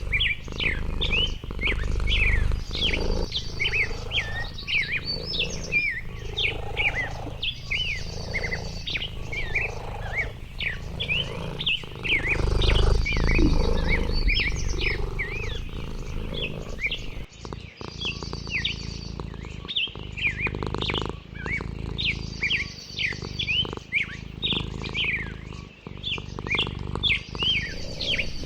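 Several birds singing: a dense run of short chirps, with a higher buzzy trill recurring about every five seconds, over a low rumbling background noise.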